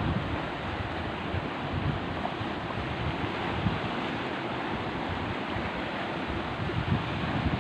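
Heavy sea surf washing and breaking in a steady roar of water noise, with wind buffeting the microphone in low gusts.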